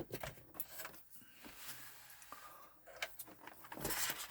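Scattered light clicks and knocks of hard plastic being handled, with a short rustle near the end: hands working on a PS4 console to get at its disc drive.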